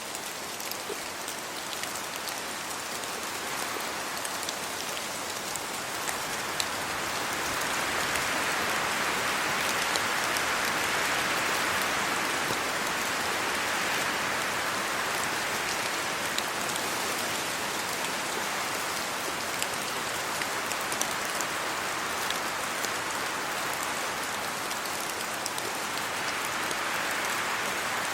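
Steady rain falling on trees and a road, an even hiss sprinkled with sharp drop ticks. The hiss swells louder for several seconds about a third of the way in, then eases back.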